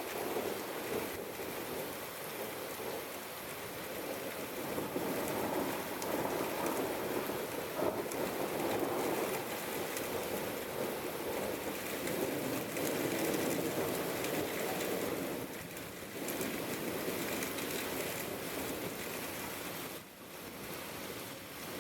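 Steady rain falling and pattering on surfaces, a continuous even hiss that sounds fuller through the middle and thins a little near the end.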